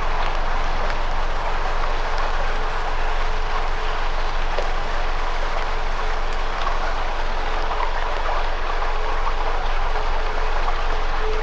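Campfire burning: a steady hiss with scattered small crackles and pops.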